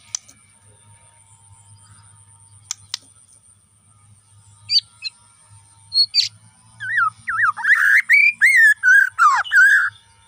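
Bornean white-rumped shama singing: a few sharp single notes and short calls at first, then from about seven seconds in a loud, fast phrase of rising and falling whistled notes that stops just before the end.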